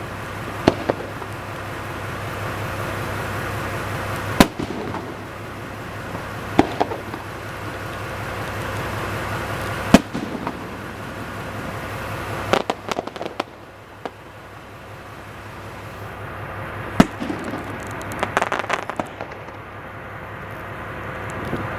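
Aerial fireworks shells bursting, with a sharp bang every two to four seconds over a steady background din. Two spells of rapid crackling come about halfway through and near the end.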